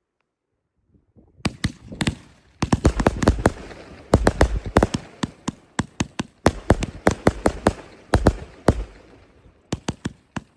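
Fireworks going off: a dense, rapid string of sharp bangs and crackling with deep booms, starting about a second and a half in after a brief near silence.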